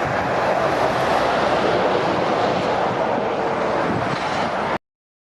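Heavy lorries climbing a motorway, a steady rush of tyre and engine noise with wind on the microphone. It cuts off suddenly near the end.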